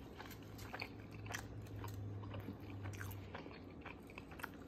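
A person chewing a mouthful of a steakburger sandwich close to the microphone: small, soft, wet mouth clicks, with a low steady hum through the first three seconds or so.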